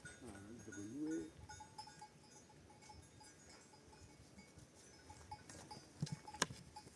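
Livestock bleating: one wavering call in the first second or so, from a goat or sheep of the nomads' flock. About six seconds in come two sharp knocks, the second one the loudest sound.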